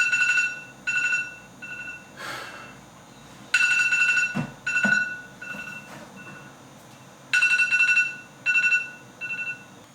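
Alarm beeping in repeating groups: a long run of rapid beeps, then two shorter, fainter ones. The pattern starts over about every three and a half to four seconds, three times. Faint rustling and a couple of soft knocks fall between the groups.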